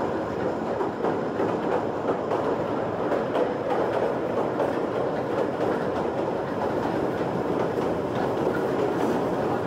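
Kurobe Gorge Railway narrow-gauge train running through a tunnel, heard from an open-air passenger car: a steady, unbroken rumble of wheels on rails.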